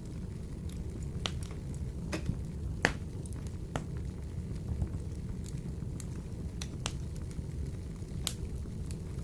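Wood fire burning in a wood-burning stove: a steady low rumble with scattered sharp crackles and pops, about eight of them, the loudest about a third of the way through.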